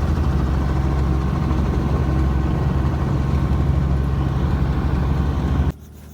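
Helicopter running: a loud, steady, low drone of engine and rotor that cuts off abruptly near the end.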